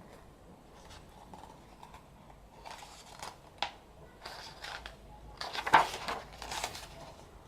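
Paper being handled: the pages and photo cards of a K-pop album's photo book rustling as they are turned, in a series of short rustles from about three seconds in, the loudest near six seconds, with one sharp click along the way.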